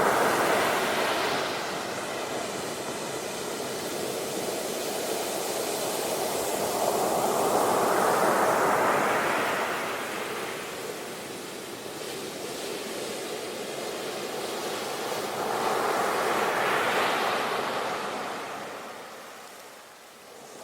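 Ocean surf washing onto a shore, with a wave swelling and breaking about every eight seconds. It sets in abruptly out of silence.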